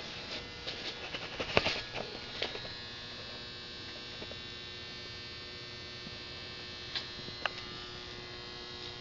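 Vintage 1950s Clinton B1290 small gasoline engine running steadily at an even speed, with a few light clicks in the first couple of seconds. It is running without its air cleaner, and the owner thinks the carburetor could use a little fine tuning.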